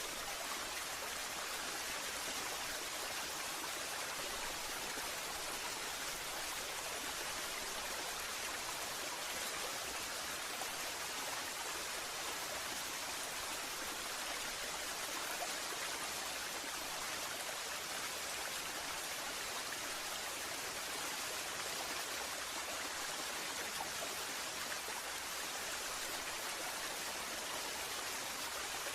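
Waterfall: falling water making a steady, even rushing hiss with no breaks.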